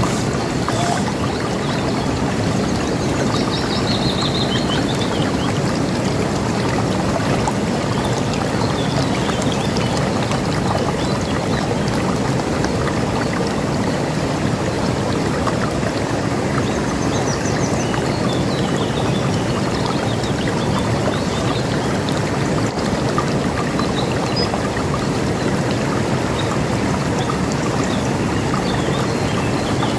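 River water rushing steadily. A few faint, high bird chirps sit over it, clearest about four seconds in.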